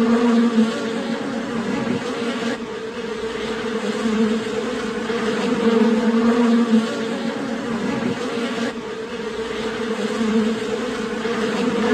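Bees buzzing in a steady, droning hum with small shifts about two and a half and nine seconds in.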